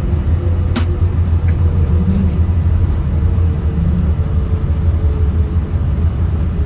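Steady low rumble in the cabin of a Boeing 787-9 rolling on the ground just after landing, with one sharp click about a second in.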